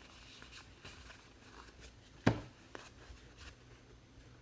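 Trading cards being handled, with faint small clicks and one sharp tap a little over two seconds in.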